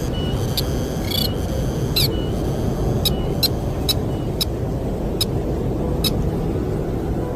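Sintar bird giving short, sharp repeated calls, irregularly spaced about a second apart and quickest near the middle, over a steady rush of wind.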